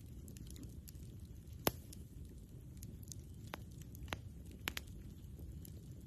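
Campfire wood crackling and popping: scattered sharp pops, the loudest about a second and a half in and a quick pair near five seconds, over a low steady rumble.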